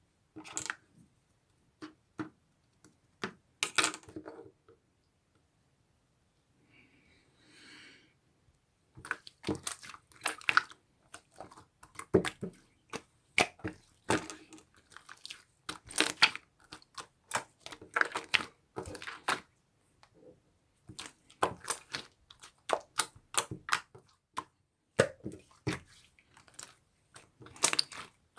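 Slime being squished and poked by hand, giving sharp, irregular clicks and pops. After a few scattered clicks there is a quieter stretch of several seconds, then the clicking comes thick and fast.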